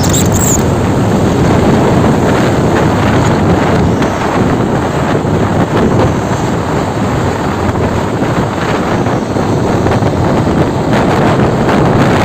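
Truck and road noise, a steady loud rumble mixed with wind buffeting the microphone.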